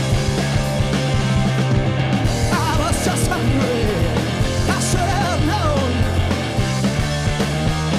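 A rock band playing live and loud, with sustained bass notes under dense, distorted full-band sound. A wavering, wobbling high line rides on top in the middle.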